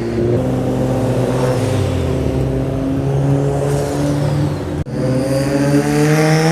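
Car engine running at a steady, low pitch with small blips of the throttle. After a brief dropout about five seconds in, an engine revs up, its pitch climbing steadily.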